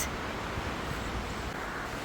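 Steady rushing outdoor noise, with wind buffeting the microphone as a low rumble.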